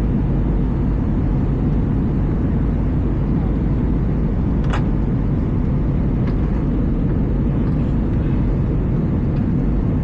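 Steady low roar of engine and airflow noise inside the cabin of an Airbus A320, with one brief faint click about halfway through.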